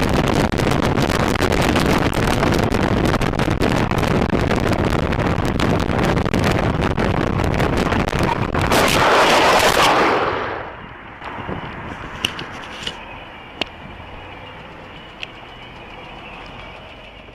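Dash-camera audio from a car on the road: loud noise crackling with rapid sharp pops for about ten seconds, then dropping to a quieter steady noise with a few isolated clicks.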